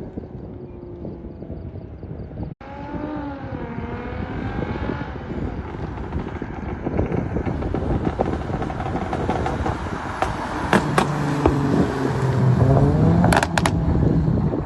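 Car exhaust with no muffler, an X-pipe and the second catalytic converter deleted, on a stage 1+ tune: the engine revs up and down and pulls hard, with sharp crackles and pops. It grows louder and is loudest near the end, breaking off once for a moment a few seconds in.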